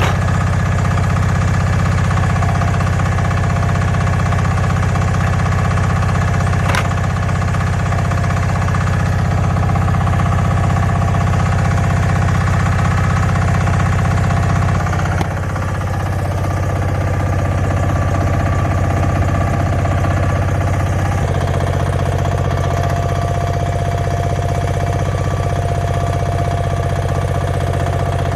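Portable sawmill's engine running steadily under load, its tone shifting about halfway through and again a few seconds later. A brief high squeak about seven seconds in.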